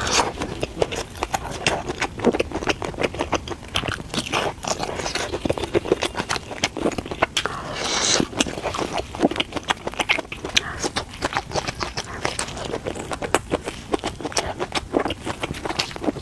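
A person eating close to the microphone: steady chewing and biting, heard as many quick, irregular wet mouth clicks. There is a brief, louder noisy sound about halfway through.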